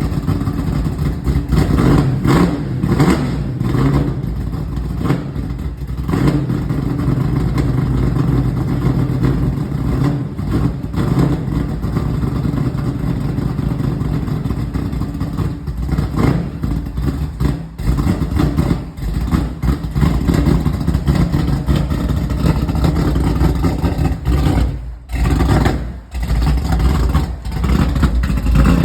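Chevrolet Camaro running through a newly fitted aftermarket exhaust, the engine note rising and falling as it accelerates and eases off. The sound dips sharply twice near the end.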